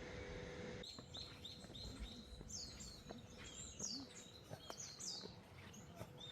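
Small songbirds chirping: a run of short high notes, then several quick downward-sliding calls and more chirps. In the first second a steady hum with a faint tone cuts off abruptly, then the birdsong takes over.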